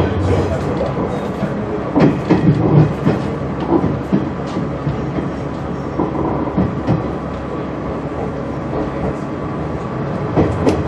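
Train running along the track, heard from inside the rear cab. There is a steady running noise, and the wheels clack over rail joints, with a cluster of knocks about two seconds in and more around six and ten seconds.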